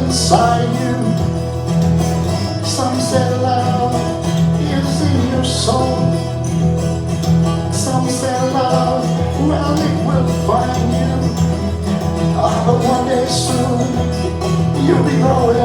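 Live country-style song played on guitar with bass, the melody line bending in pitch over steady low notes.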